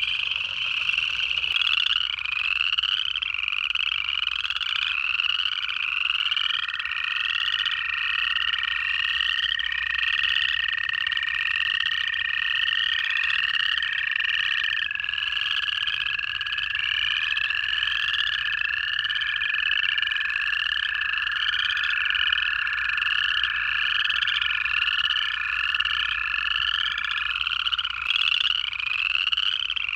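Chorus of upland chorus frogs, their short rising trills repeating continuously and overlapping. From about six seconds in to near the end, American toads give long steady trills beneath them, one taking over as another stops.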